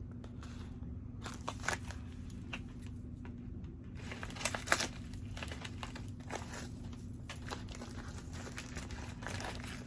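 Packaging crinkling and rustling as a mail package is handled and opened, with a few louder crackles about 2 seconds in and again near 5 seconds.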